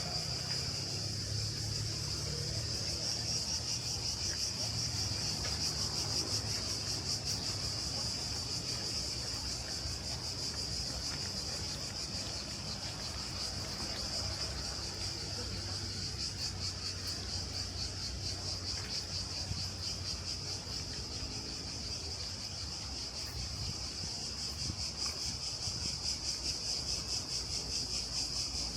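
Cicadas singing in a steady, loud chorus: a high, fast-pulsing buzz that holds without a break, over a faint low rumble.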